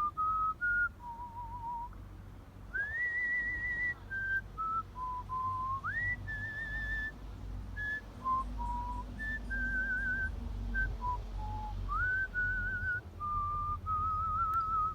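A person whistling a melody solo, artistic whistling: one clear tone in held notes with a fine vibrato, some notes reached by quick upward slides, all between about 900 Hz and 2 kHz. A steady low rumble lies underneath.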